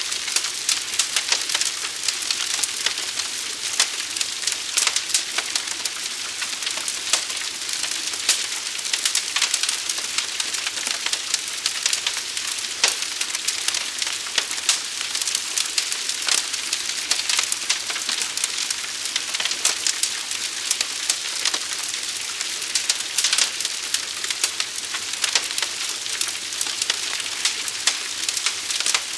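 A large fire burning, with a dense, unbroken crackling and popping of burning wood over a steady hiss.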